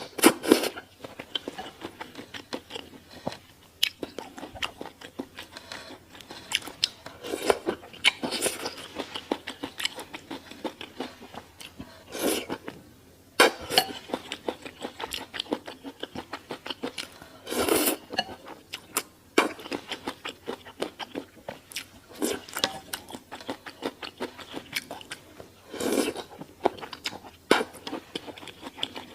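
Close-miked eating: steady chewing with crunchy bites and wet mouth clicks, and louder crunches or bites every few seconds.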